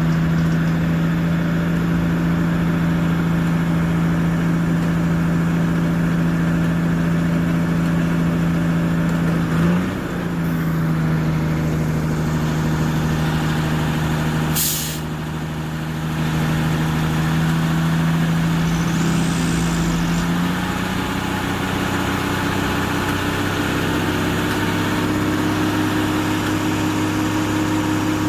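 Heavy diesel tow truck engine running steadily at raised speed while it winches the truck, its note dipping briefly about ten seconds in and settling to a lower pitch about twenty seconds in. A single short sharp noise about fifteen seconds in.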